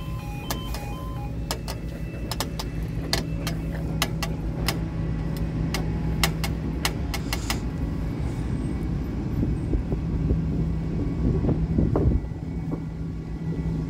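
A road-rail vehicle's engine runs steadily as it passes over the level crossing, with a run of sharp clicks in the first half. The crossing's two-tone yodel alarm stops about a second in.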